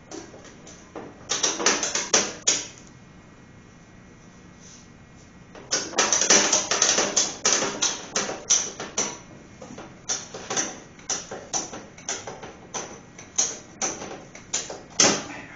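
Ratchet strap being cranked tight: runs of sharp ratchet clicks, a short run about a second in, a longer dense run from about six seconds, then single clicks spaced further apart towards the end, leaving the strap pretty darn tight.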